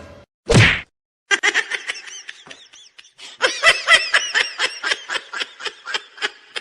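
High-pitched laughter in quick repeated bursts, after a single short thud-like sound about half a second in.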